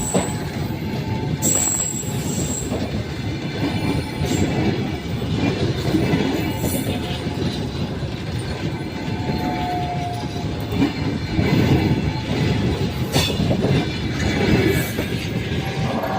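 Passenger train hauled by an EP1M electric locomotive rolling past on steel wheels, a continuous loud rumble over the rails. Brief high wheel squeals come in near the start and about ten seconds in, and a couple of sharp knocks follow later.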